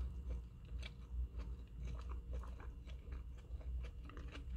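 A person chewing a mouthful of chicken burger: scattered soft clicks and small crunches, with a low steady hum underneath.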